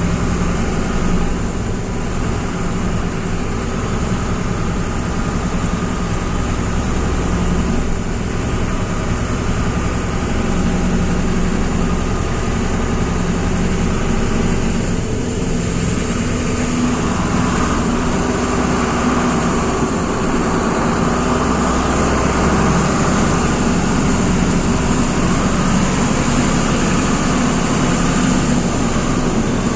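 A truck engine running steadily at low revs. A little past halfway through, the sound grows fuller and stronger.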